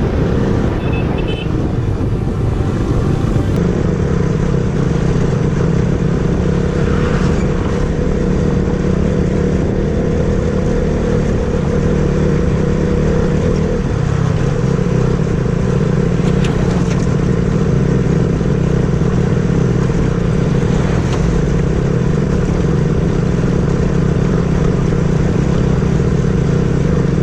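Motorcycle engine running steadily while riding, over a constant haze of road and wind noise; the engine note shifts slightly a couple of times.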